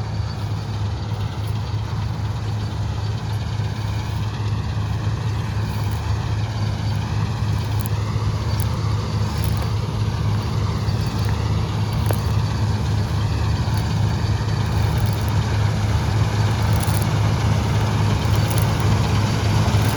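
Preet 987 combine harvester running steadily while cutting wheat: a deep, even engine drone that grows slowly louder.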